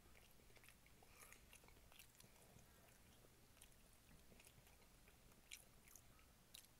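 A person chewing and biting food with his fingers at his mouth: faint, irregular small mouth clicks and smacks.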